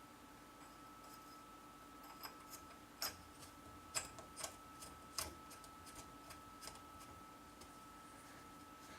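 Faint, irregular clicks and light taps of small metal parts being handled as the dust washer is fitted to the Schaublin 70 lathe headstock, sharpest around three to five seconds in, over a faint steady hum.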